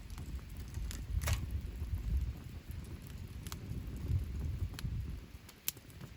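Wood campfire burning in a fire pit, with a few sharp crackling pops over a low, uneven rumble; the loudest pop comes about a second in.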